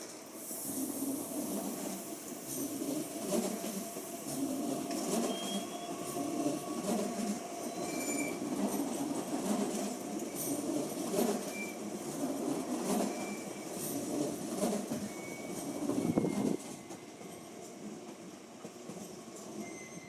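A train rolling over the tracks: the wheels rumble and click, with short high squeals now and then. The sound drops off sharply about sixteen seconds in.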